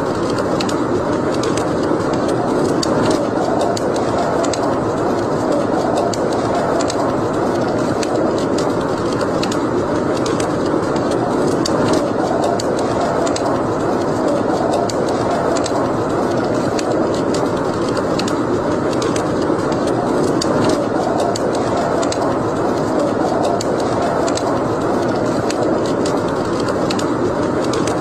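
Wood fire burning in a fireplace: a steady rushing burn with frequent small crackles and pops throughout.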